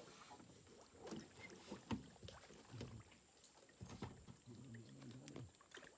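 Near silence, with a few faint knocks and bumps of gear against a small boat's hull.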